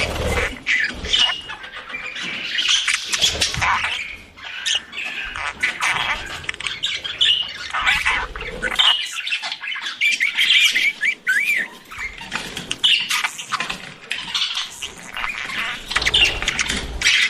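Budgerigars chattering and chirping continuously: a dense warble of quick rising and falling chirps, squawks and clicks.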